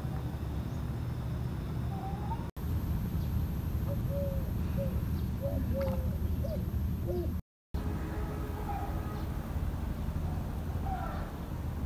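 Outdoor ambience: a steady low background rumble with short bird calls, a run of brief repeated notes in the middle and a few more near the end. The sound cuts out completely twice, very briefly.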